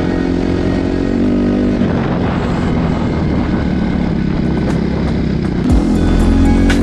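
Honda CRF250 dirt bike's single-cylinder four-stroke engine running while being ridden. The revs drop about two seconds in and climb again near the end, after a short knock.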